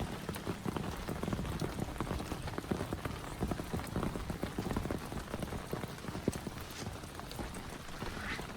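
Heavy rain falling, with dense, irregular taps of drops striking close by.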